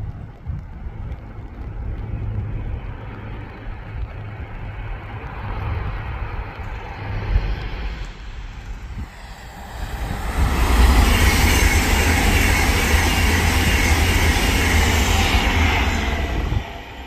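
Avanti West Coast Pendolino electric express train approaching and passing close at speed. A low rumble builds for about ten seconds, swells into a loud, steady rush of wheels on rail and air for about six seconds as the train goes by, then drops away sharply near the end.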